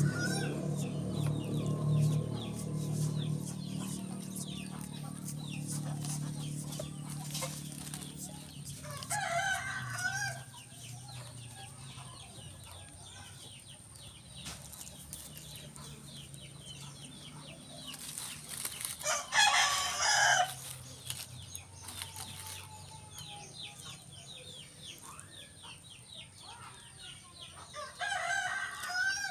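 A rooster crowing three times, each crow lasting about a second and a half and coming roughly every nine or ten seconds. Under the first crow runs a low steady hum that fades away.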